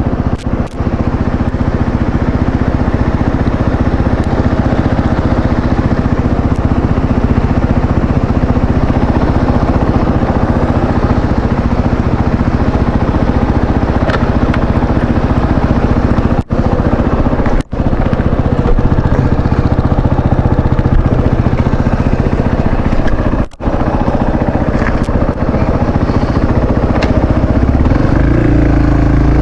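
Motorcycle engine running steadily, rising in pitch near the end as it revs up. The sound drops out briefly three times.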